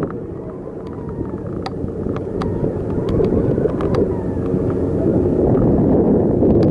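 Wind buffeting the microphone of a camera on a moving bicycle, a dense rumble that grows slowly louder, with scattered light clicks and rattles.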